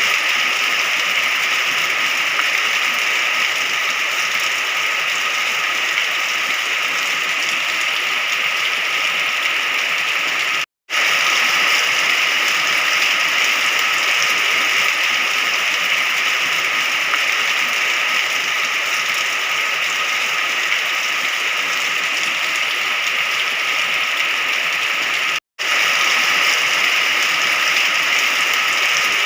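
Steady rain falling, an even hiss of drops. It cuts out to silence for a split second twice, about a third of the way in and again near the end.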